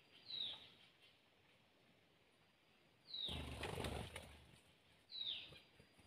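A small bird calls three times, each a short, high note sliding downward, spaced about two and a half seconds apart. Around the second call, a loud fluttering rush of noise lasts about a second, like wings beating close by.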